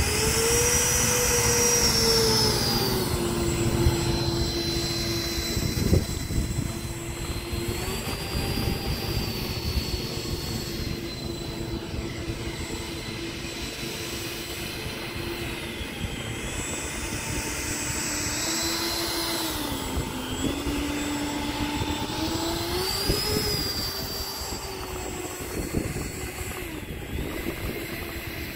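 The motors of a 1/10-scale 3D-printed Horten Ho-229 RC jet running as it taxis, with a steady whine. The pitch rises at the start, settles, dips about twenty seconds in and rises again shortly after. A single sharp knock comes about six seconds in.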